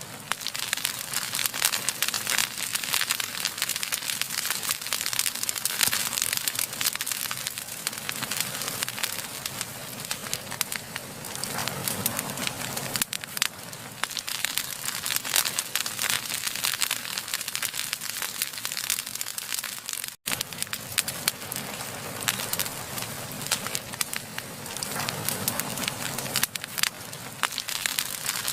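Wood fire burning, with dense, continuous crackling and popping. The sound cuts out for an instant about twenty seconds in.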